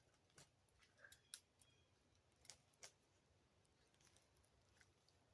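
A few faint, sharp taps at irregular intervals: a woodpecker pecking at tree bark.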